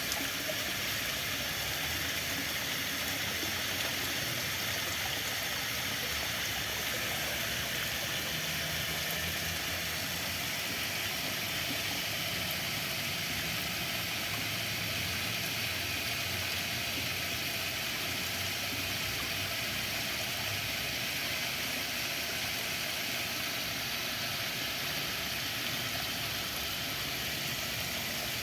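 Running water rushing steadily, an even hiss with no breaks, with a faint low hum beneath it for a while in the middle.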